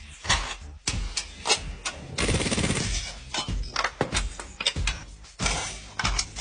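A run of sharp knocks and clatters, with a burst of rapid rattling lasting under a second about two seconds in.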